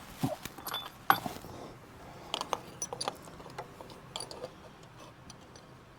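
Scattered light metallic clicks and clinks of hand tools and small parts being handled while a bolt is worked into place, busiest in the first few seconds and thinning out after.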